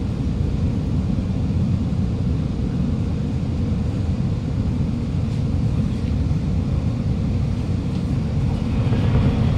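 Inside-the-cabin running noise of an Alstom Movia R151 metro train entering a station: a steady low rumble of wheels and motors with a faint hiss above it, growing a little louder near the end.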